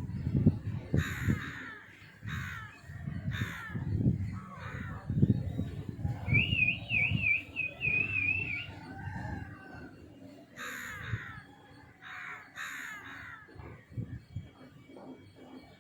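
Birds calling: harsh calls repeated about a second apart, three near the start and three more later on, with a short warbling whistle from another bird in between and low, soft sounds underneath.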